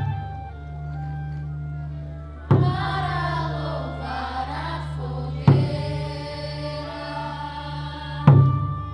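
A group of voices singing a song together, with a drum struck about every three seconds and a steady low hum underneath.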